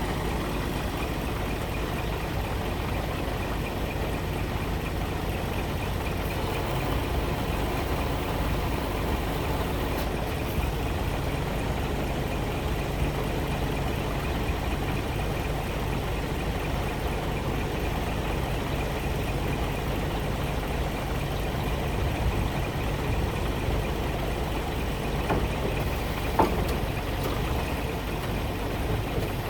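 Scania R 420 truck's 12-litre straight-six diesel engine idling steadily, with one sharp click near the end.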